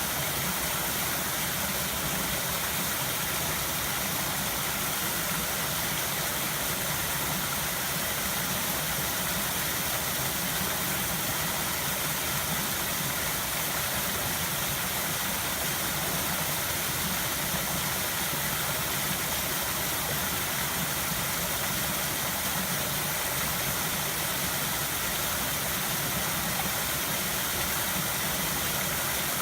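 A river flowing, a steady, continuous rush of water with no change in level.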